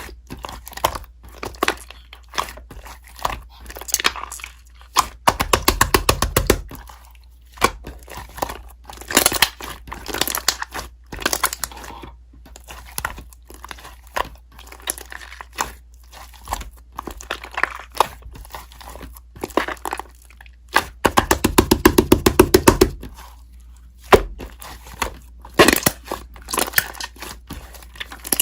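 Slime being squished and pressed by hand, giving sticky crackles and pops. There are two stretches of rapid, dense clicking, about five seconds in and again around twenty-one seconds.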